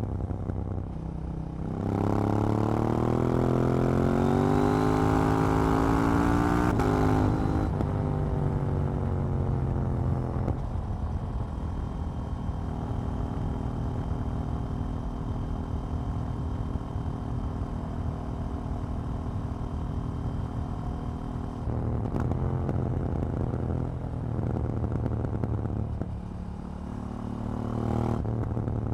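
KTM 790 Duke's parallel-twin engine under way: pitch rising under acceleration about two seconds in, then dropping back and holding a steady cruise for a long stretch, with another change in engine speed later and a rise again near the end.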